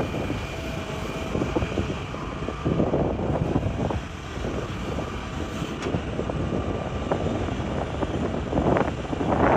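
Hitachi excavator digging rock: diesel engine running under load with rough clattering and scraping of rock, louder about three seconds in and again near the end.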